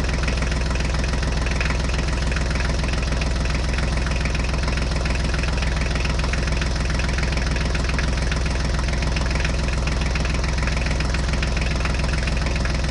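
Engine idling steadily with an even, low pulsing note that does not change in speed.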